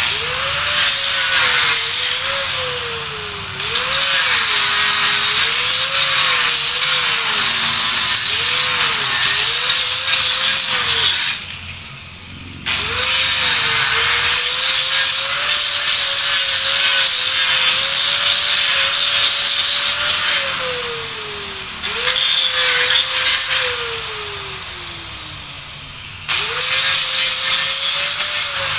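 Electric grinder grinding in several long runs, its motor pitch dipping repeatedly as it is pressed into the work. The motor is switched off and briefly stops about 11 seconds in, and later winds down with a falling whine, about 20 seconds in and again near the end.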